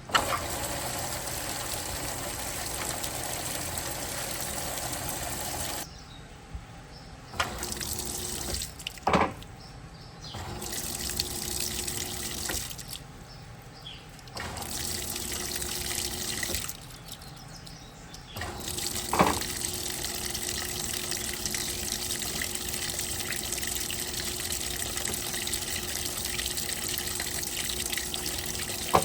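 Electrolux Turbo Capacidade Premium 15 kg top-loading washing machine filling with water: a steady rush of water into the tub that cuts out briefly four times and starts again. Two sharp clicks sound along the way.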